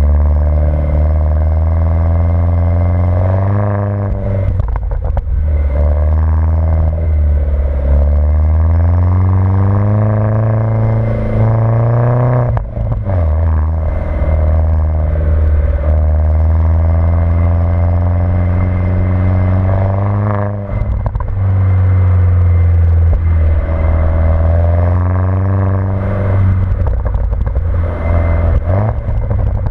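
Mini Cooper S engine and modified exhaust under way while driving: the note climbs in pitch as it pulls through the revs, then drops off abruptly at each of several gear changes, and the same rise and drop repeats through the gears.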